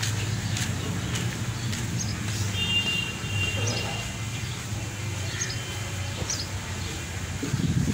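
Scattered short bird chirps over a steady low hum, with a brief steady high tone a few seconds in. A louder burst of noise comes near the end.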